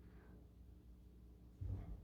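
Near silence: faint room tone with a low steady hum, and a short low thump near the end.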